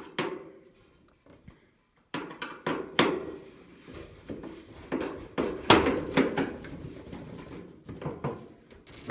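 Irregular knocks, clinks and rattles of a clothes dryer's metal and plastic parts being worked by hand during belt removal, starting after about two seconds of near quiet.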